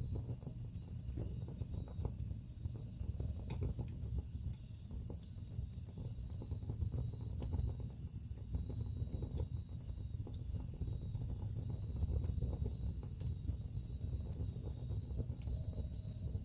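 Wood fire burning in a fireplace: a steady low rumble of flames with frequent small crackles and a few sharper pops from the burning logs.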